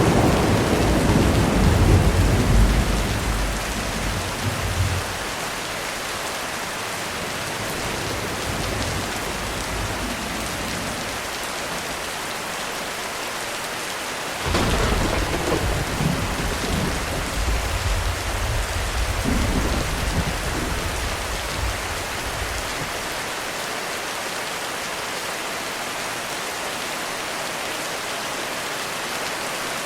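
Heavy rain falling steadily through two rolls of thunder: one rumbling at the start and dying away after about five seconds, and a second that breaks in suddenly about halfway and rumbles on for about eight seconds.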